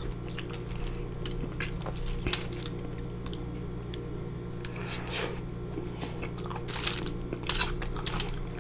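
Close-up chewing and mouth sounds of a person eating sauce-covered fries, with scattered clicks, and a metal fork scraping and clinking in the foil tray near the end.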